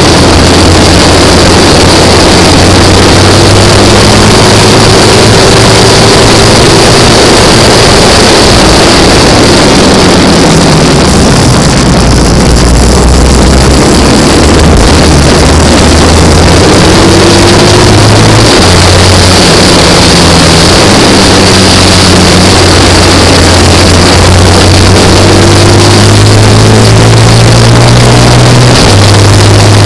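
Classic racing sidecar's engine running hard at racing speed, heard from a low onboard mount through heavy wind and road noise. The engine note drops as the outfit slows for a corner about ten to fourteen seconds in, then climbs again in steps through several gear changes.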